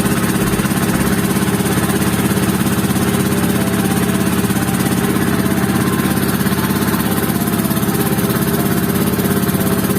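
Engine of a motorized outrigger boat (bangka) running steadily under way, with a fast, even firing rhythm that does not change.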